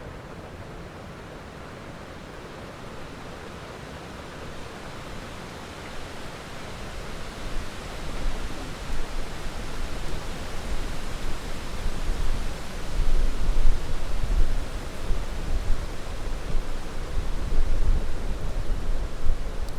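Steady heavy rain as an even hiss, with a low rumble of thunder building from about halfway in and rolling on through the rest.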